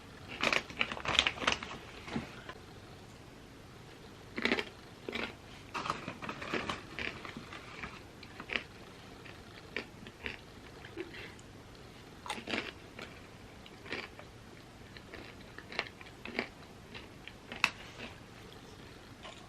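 Close-miked crunchy chewing of chips: irregular bites and crackling crunches, densest near the start.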